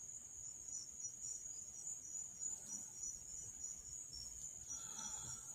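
Faint chorus of crickets chirping steadily, a continuous high trill with evenly repeating pulses.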